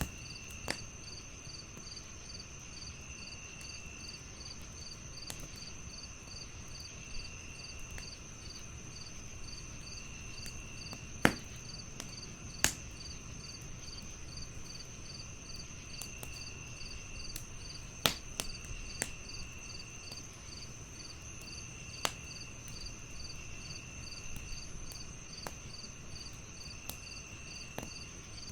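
Crickets chirping in a steady, even pulse, with a second insect trill coming and going in short phrases. Over this, a low crackle runs underneath, and a few sharp pops from burning wood in a fireplace stand out as the loudest sounds, two close together about halfway through and two more later.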